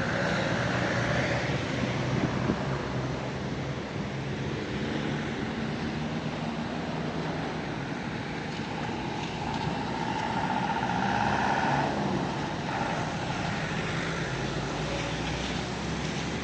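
Street traffic noise: motor vehicles running and passing under a steady hiss of road noise, with one passing sound swelling about nine seconds in and fading near twelve seconds.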